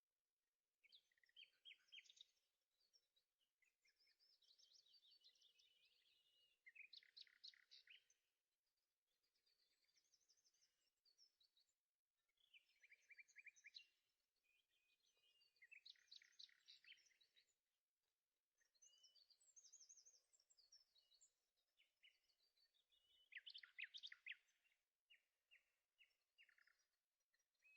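Faint birdsong: short chirping and trilling phrases repeated every few seconds, with brief pauses between them.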